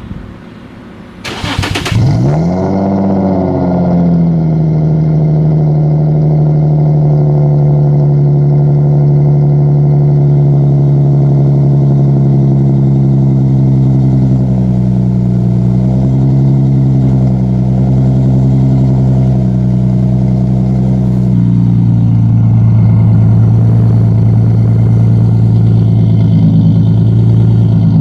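Infiniti G35's VQ35DE V6 cold-starting through a custom single-exit exhaust. A short crank about a second in is followed by a rev flare as it catches, then a loud, steady fast cold idle that drops to a lower idle near the end.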